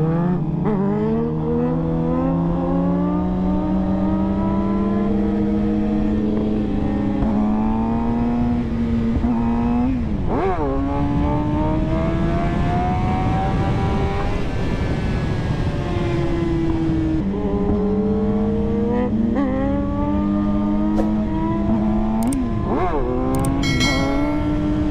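Suzuki GSX-R sport bike's inline-four engine under way, revs climbing through each gear and dropping sharply at the shifts, with wind rush underneath. A quick rev sweep comes near the end.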